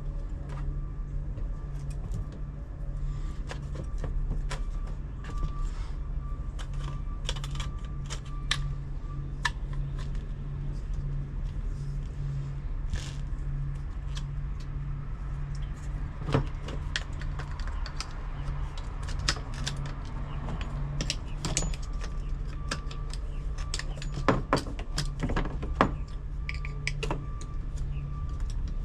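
Irregular clicks, clinks and knocks of hand tools and hardware being handled during a blower motor swap, over a steady low hum.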